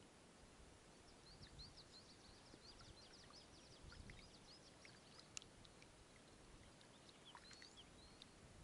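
Quiet outdoor ambience with a small bird chirping faintly: a quick run of short, high chirps for several seconds, then a few more near the end. There is one sharp click about five seconds in.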